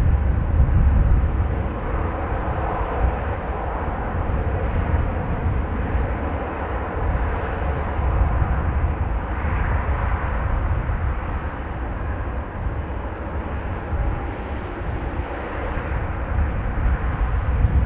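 Jet airliner engines running at a distance, a steady rumble and hiss with faint steady tones, over gusty wind buffeting the microphone.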